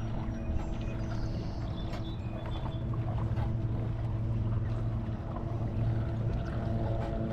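Steady motor drone running evenly throughout, with wind and water noise.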